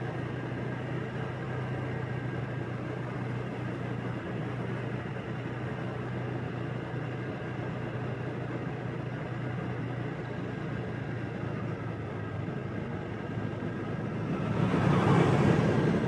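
Motorbike running at a steady cruise, a low engine hum under road and wind rush. Near the end the sound swells louder for about a second and a half, like a vehicle passing close, then eases off.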